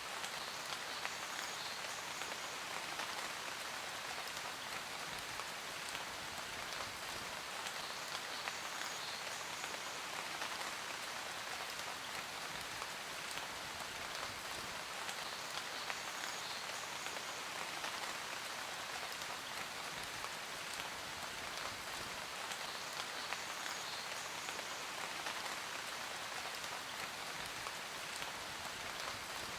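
Steady, dense rain: an even hiss of countless drops that keeps the same strength throughout.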